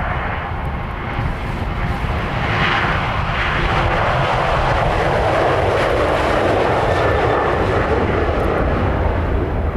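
Jet engines of a departing Boeing 737-800 (CFM56-7B turbofans), growing louder over the first few seconds and then holding steady, with a low wind rumble on the microphone underneath.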